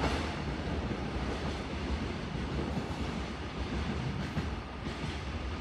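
Steady rumble of a container freight train running along the rails, out of sight and heard much quieter than at its loudest.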